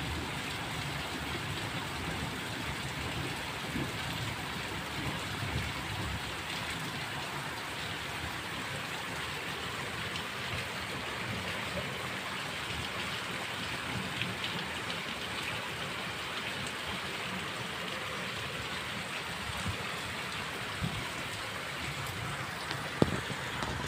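Steady rain falling on a street and house walls, with scattered drop ticks and one sharp click near the end.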